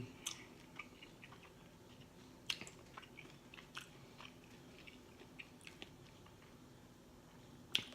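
A person chewing smoked beef, cheese and jalapeno sausage close to the microphone: faint, irregular mouth clicks and smacks.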